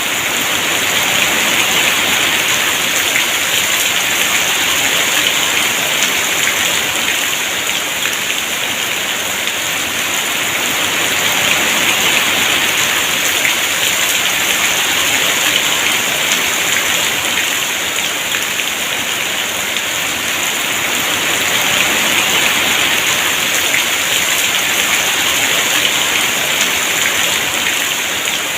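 Heavy rain falling and pattering on surfaces, a dense steady hiss that swells and eases slowly over several seconds.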